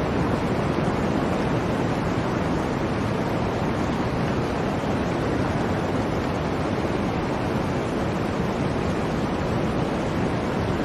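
Blizzard wind: a steady, unbroken rush of noise, deep and full, with no gusts, breaks or separate sounds.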